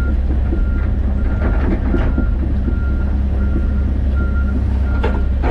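Excavator diesel engine running steadily under a short, repeating backup alarm beep, about one beep every 0.7 seconds.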